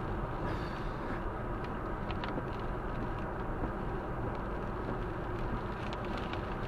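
Steady rumble of a car driving at motorway speed, with a few brief hisses over it.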